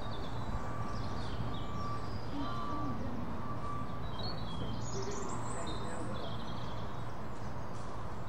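Small birds chirping in repeated short, high calls over a steady low background noise.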